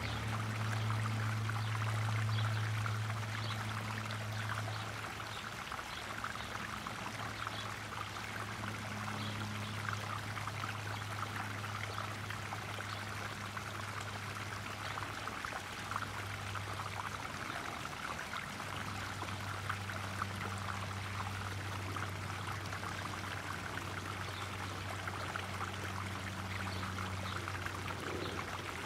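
Small garden pond waterfall splashing and pouring steadily, with a low steady hum under it that drops away briefly a couple of times.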